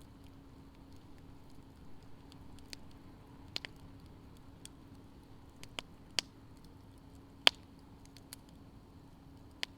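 Wood campfire burning in a fire-pit stand, crackling with scattered sharp pops, the loudest about seven and a half seconds in.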